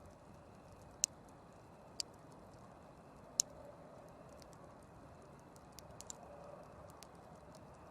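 Wood campfire crackling: three sharp pops in the first few seconds, then a run of lighter crackles, over a soft steady hiss.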